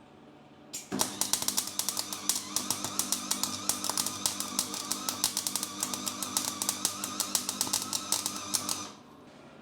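Small MIG welder laying a weld bead on a steel exhaust: the arc crackles rapidly and unevenly for about eight seconds, starting about a second in and stopping shortly before the end, with a steady hum under it.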